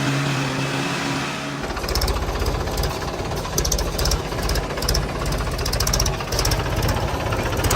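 Heavy diesel engine running: a steady hum for about the first second and a half, then a loud, rough clattering with rapid knocking.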